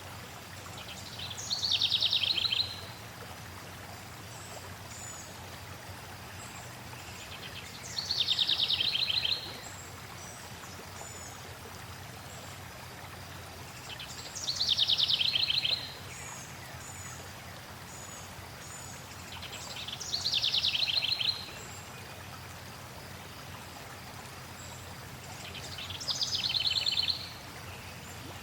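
A songbird sings the same short trilled song five times, about every six seconds; each song opens with a high slurred note and runs into a rapid trill. Faint high chips come between the songs, over a steady rush of flowing water.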